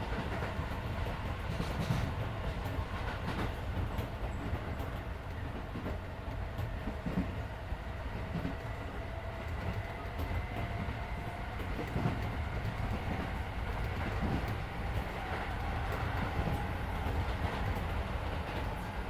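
Running sound inside a Keisei 3400-series electric train car: a steady low rumble of wheels on rail with occasional clicks over rail joints, and a faint whine that rises slowly in pitch.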